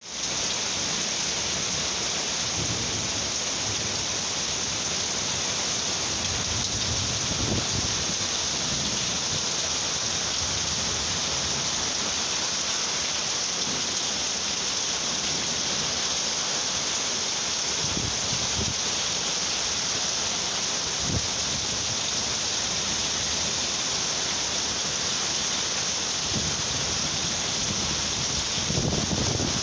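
Heavy tropical rainstorm: a downpour hissing steadily, with a few brief low rumbles of thunder.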